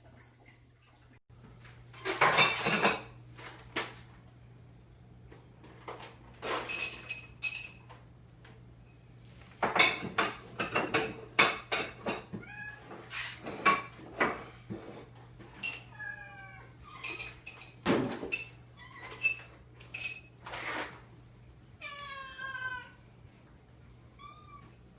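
Cats meowing a few times amid repeated clinks and clatter of dishes or bowls, some of them ringing briefly.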